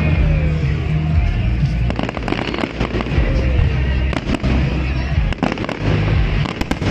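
Fireworks bursting and crackling in quick, irregular bangs, with music playing underneath.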